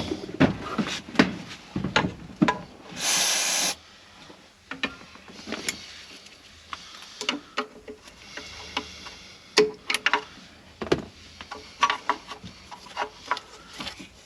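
Hand work on an engine bay as hoses and parts are taken off: scattered clicks, knocks and rubbing of tools and parts, with one short hiss about three seconds in.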